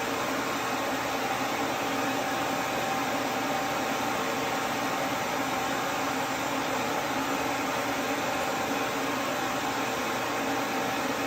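Duz V3 pet dryer running steadily, its fan blowing air with an even rushing noise and a faint steady hum.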